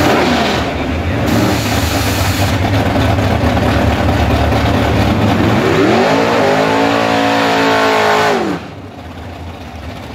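Drag race car engine running loud and rough at the starting line. About six seconds in, one rev climbs, holds for a couple of seconds and falls off. The level then drops to a lower, steady idle.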